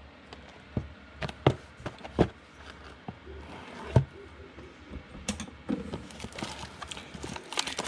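Scattered sharp clicks and light taps, about a dozen at uneven intervals, with faint rustling between.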